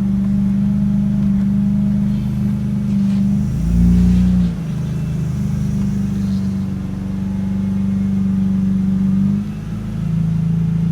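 Lamborghini Murcielago V12 idling after a cold start, with a brief rise in revs about four seconds in and a short dip near the end. The engine would barely idle on its current ECU, which the owner believes is in limp mode.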